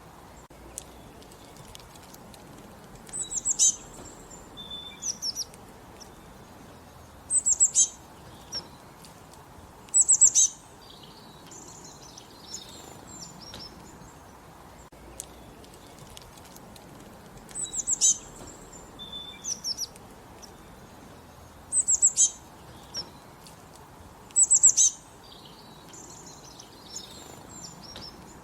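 Songbirds singing: short bursts of quick, high, falling chirps repeated every few seconds, with quieter twittering between them over a faint steady background hiss.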